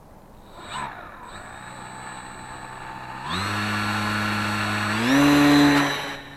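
A small motor whining, stepping up in speed twice, loudest after the second step, then stopping just before the end.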